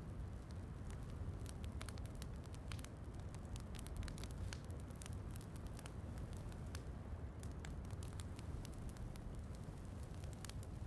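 Wood fire crackling in a fireplace: frequent irregular sharp pops and snaps over a steady low rumbling noise.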